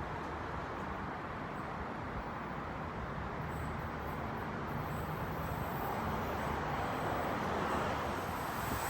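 Electric suburban train running, a steady rumble with a faint high whine that grows slightly louder towards the end as the train approaches.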